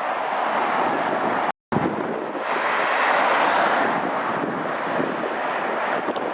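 Dual-carriageway traffic rushing past, a steady tyre-and-engine noise. A brief gap of silence comes about one and a half seconds in, and a vehicle swells past about three seconds in.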